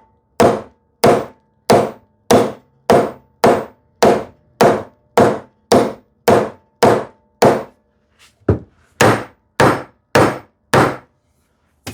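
Repeated hammer taps on a wooden drawer part, about two a second with a short pause a little after the middle and then four more, driving a glued drawer back down into its housing dado joint until it seats.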